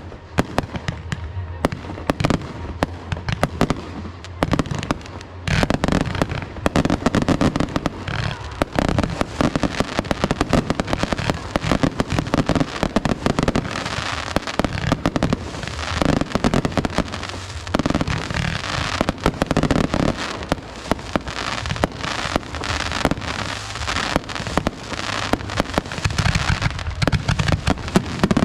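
Fireworks display: a continuous, rapid string of bangs and crackles.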